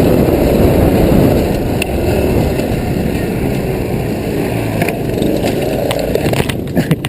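Postie bike being ridden: a loud, rough low rumble of engine and ride noise, with a few sharp knocks and clatters, most of them near the end.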